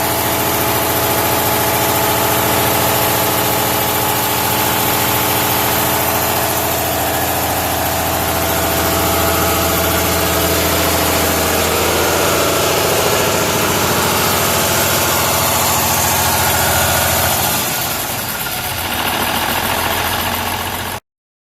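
Cummins N14 Celect Plus inline-six diesel engine running steadily at an even speed. Near the end the steady note breaks up and wavers, then the sound cuts off abruptly.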